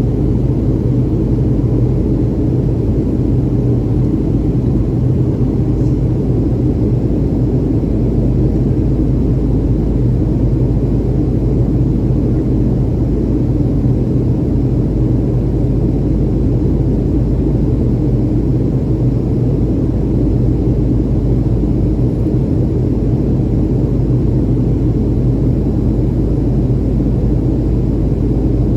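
Steady low rumble of engine and airflow noise inside the cabin of a Boeing 737 airliner in flight after takeoff, unchanging in level and pitch.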